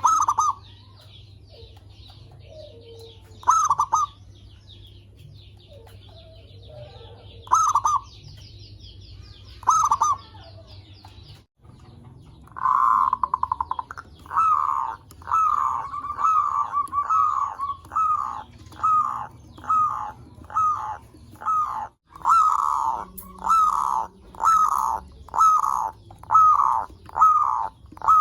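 Zebra dove (perkutut) cooing. A few short coos several seconds apart over a steady high buzz, then, after a brief break a little before halfway, a fast regular run of repeated coo notes, about one and a half a second.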